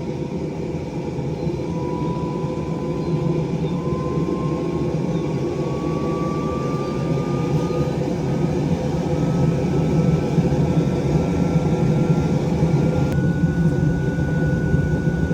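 Forge running with a steady low rush that slowly grows louder, and a thin whine that rises gradually in pitch.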